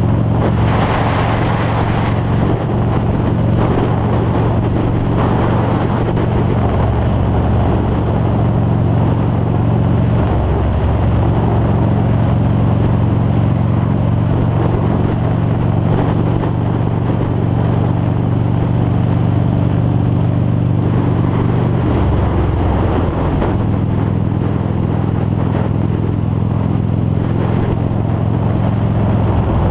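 Harley-Davidson V-Rod Muscle's liquid-cooled Revolution V-twin running steadily while riding, with wind rushing over a helmet-mounted microphone. The engine note breaks and shifts about ten seconds in and again about twenty-two seconds in.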